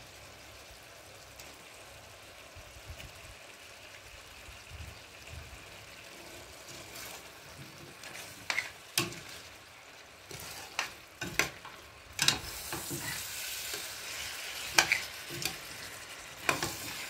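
Tripe and potato curry sizzling in a stainless steel pot, faint and steady at first. From about halfway a metal spoon stirs it, with sharp clinks and scrapes against the pot, and the sizzle grows louder as the food is turned.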